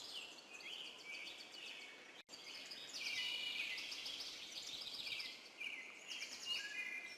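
Nature ambience of several birds chirping and trilling in quick short calls over a faint hiss, with a momentary dropout about two seconds in.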